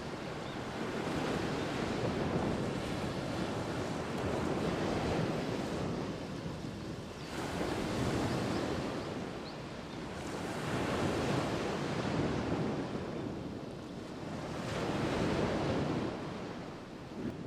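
Ocean waves breaking and washing up the shore, swelling and easing about every three to four seconds.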